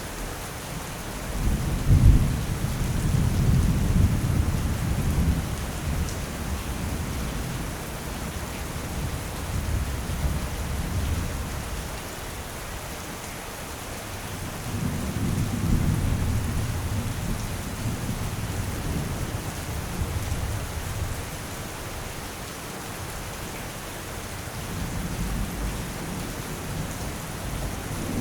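Steady rain with long rolls of thunder. The first breaks sharply about two seconds in and rumbles on for around ten seconds, the second swells up about halfway through, and another begins right at the end.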